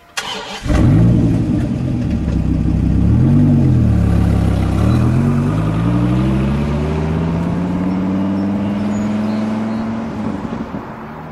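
Dodge Viper V10 engine firing up and revving, then pulling away hard. The note climbs, dips, and climbs again through long accelerating runs, with a drop near the end.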